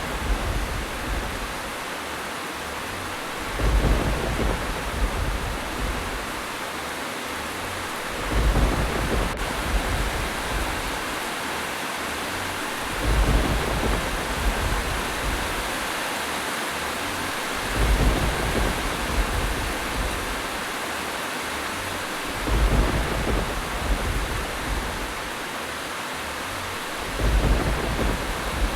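Steady rain hissing, with low rumbles of thunder that swell and fade about every four to five seconds, six times.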